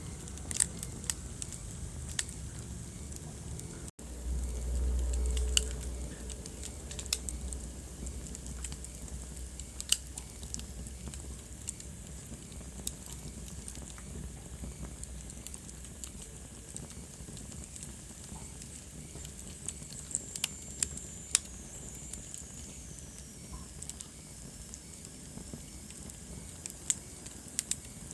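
Wood fire burning in a fireplace, crackling: a steady hiss of flames with scattered sharp pops and snaps. About four seconds in there is a momentary gap followed by a low rumble lasting a couple of seconds, and around twenty seconds in a faint high whistle glides down in pitch.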